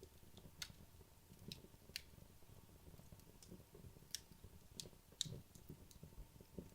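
Wood logs burning quietly in a fireplace: a soft low flutter of flame with about half a dozen sharp, scattered crackles and pops, the loudest a little after five seconds in.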